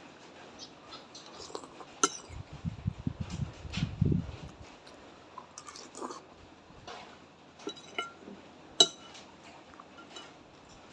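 Eating a bowl of noodle soup: a spoon clinks now and then against the bowl, with chewing close by for a couple of seconds early on and a sharper clink near the end.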